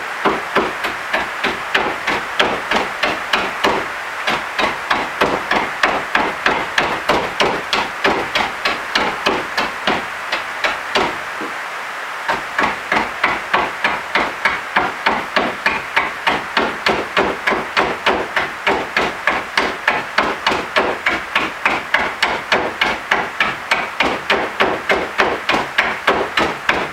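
Rapid, steady hammering on dense wood, about three blows a second, with a short pause about eleven seconds in.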